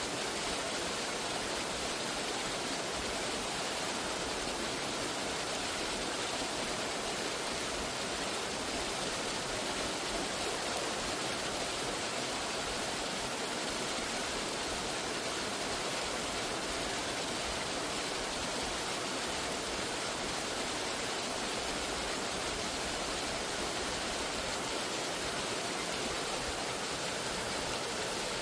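Waterfall's falling water, a steady even rush that does not change.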